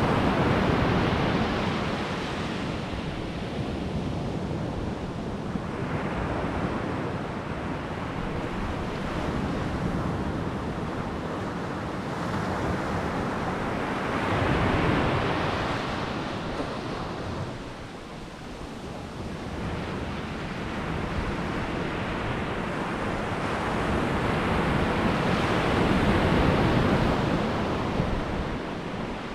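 Sea waves breaking and washing up a beach, the surf swelling and fading every several seconds.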